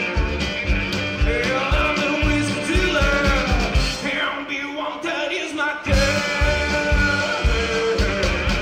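Live rock band playing, with drums and bass on a steady beat. The low end drops out for about two seconds in the middle, then the full band comes back in.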